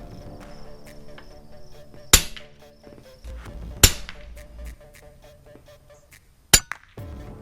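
Three sharp air rifle shots, the first two a little under two seconds apart and the third nearly three seconds later, over background music.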